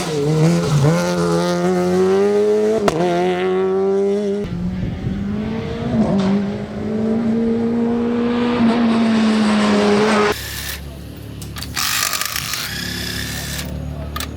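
Peugeot 208 R2 rally car's engine running hard at high, fairly steady revs with small dips. The engine sound cuts off abruptly about ten seconds in and gives way to a different, noisier sound.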